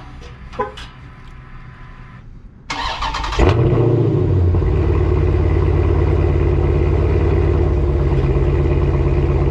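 2023 Dodge Challenger Scat Pack's 6.4-litre HEMI V8, with its mid muffler and resonator deleted, starting up: a short crank about three seconds in, a quick flare as it catches, then a loud, steady idle.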